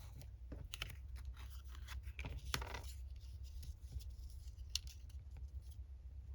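Paper scraps being handled and worked by hand: short rustles, snips and clicks, busiest about two to three seconds in, over a low steady hum.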